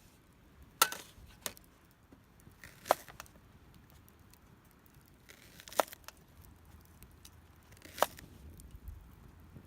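A few sharp, isolated snaps or knocks, about five spread irregularly over the stretch, against a quiet background.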